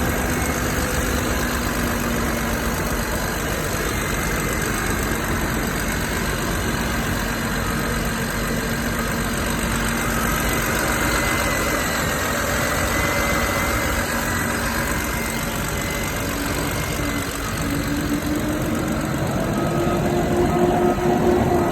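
2008 BMW 535xi's twin-turbo 3.0-litre inline-six idling steadily. In the last few seconds a higher note comes in, rising a little in pitch and loudness.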